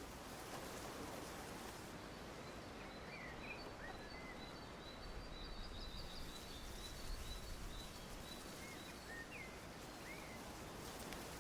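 Steady low background hiss with a few faint bird chirps, and a high, rapid trill of short notes from about three to seven seconds in.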